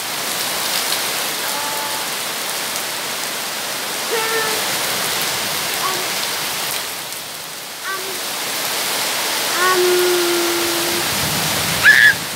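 Heavy rain pouring steadily on garden foliage and the ground, a constant hiss. A few faint brief pitched sounds come through it, with a short, louder high-pitched call near the end.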